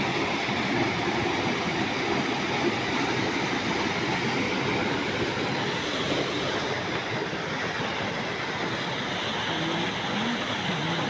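Waterfall: water falling fast and heavily, a steady loud rush of noise.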